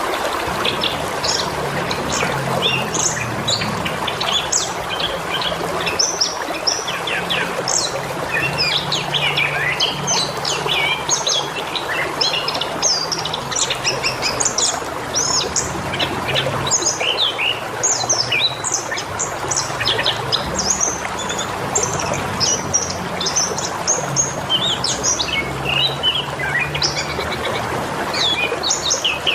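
Many small birds chirping and twittering without a break, over a steady trickle of running water.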